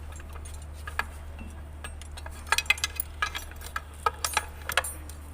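Metal tools and engine parts clinking and clicking irregularly as they are handled, most of it in the second half, over a steady low hum.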